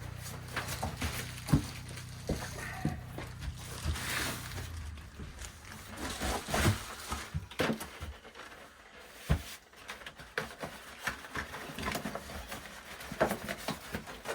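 Rustling and scattered knocks and clunks of boxes and model train pieces being handled and moved about. A low steady hum runs under the first few seconds and then stops.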